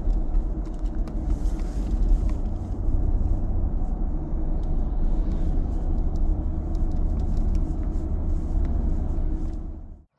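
Steady low road rumble of a car in motion, which cuts off abruptly near the end.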